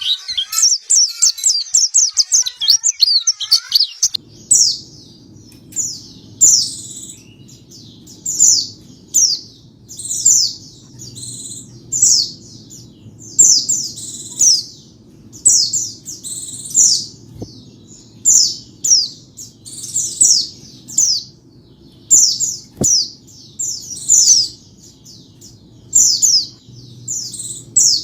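White-eye (pleci) singing: a fast, dense twittering for about four seconds. Then, after an abrupt change, short high down-slurred chirps come in quick clusters, one or two a second, over a low steady hum.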